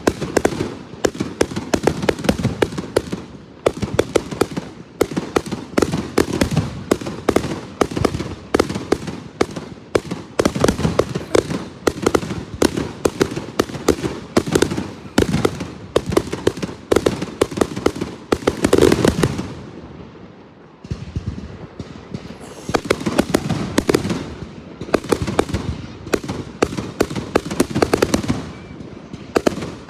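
Fireworks going off in a rapid, continuous string of sharp bangs and crackles, many per second, easing briefly about two-thirds of the way in before picking up again.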